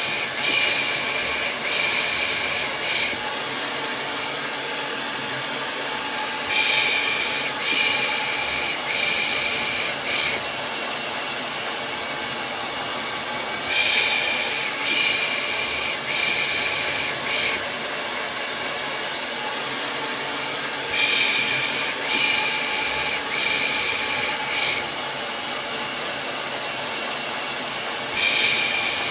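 A hair dryer runs steadily as white noise for a baby, with soothing shushes ('pış pış') over it. The shushes come in groups of three about every seven seconds, five times in all.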